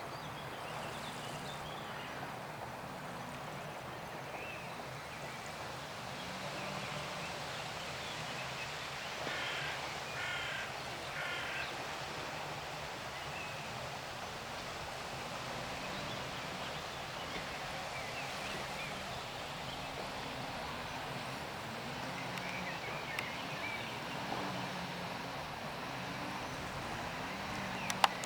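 Steady wash of sea noise at the shore with birds calling over it; a run of three short calls comes about a third of the way through, with fainter calls scattered around it. A couple of sharp clicks come at the very end.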